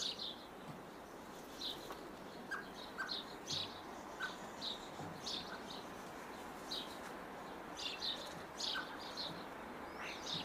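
Small birds chirping now and then, short high tweets scattered irregularly over a steady faint hiss.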